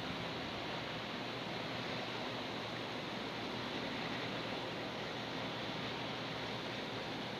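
Steady rushing noise of an airplane with a faint low hum underneath, unchanging throughout.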